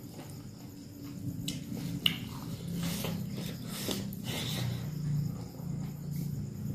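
Close-miked mouth sounds of eating: chewing and lip-smacking on a handful of rice and beef eaten by hand, with scattered sharp clicks, over a low steady hum.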